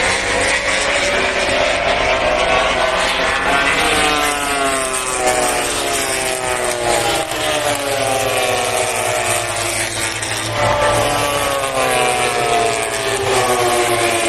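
MotoGP race bikes' high-revving four-stroke engines passing in succession, each climbing in pitch as it accelerates and then dropping away as it goes by, with fresh passes about four seconds in, around ten seconds in and near the end.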